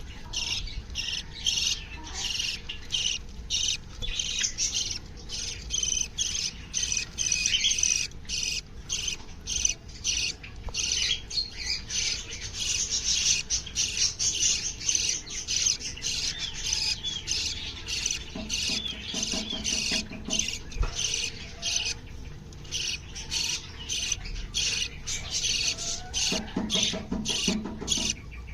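Many small aviary birds chirping and chattering nonstop in rapid, high-pitched notes, with a few lower, harsher calls now and then.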